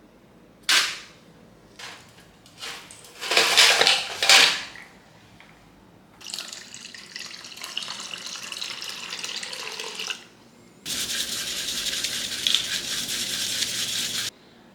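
Spray from a nozzle hissing, most likely water: a few short bursts, then a long steady spray, then a louder one that starts and cuts off abruptly.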